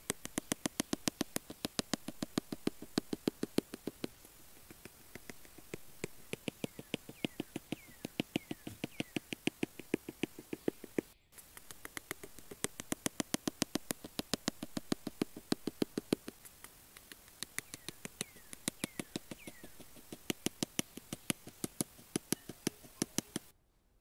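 A fast, even run of sharp clicks, about ten a second, going in stretches of a few seconds with short breaks, with a few faint high falling chirps now and then.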